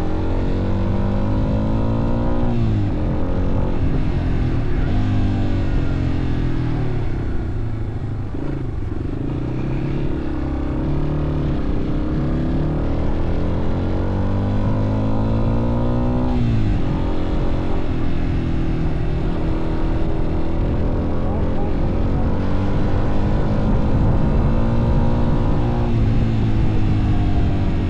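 Motorcycle engine running under way, its pitch climbing and then dropping back sharply three times, about 2.5 s, 16 s and 26 s in, as at gear changes.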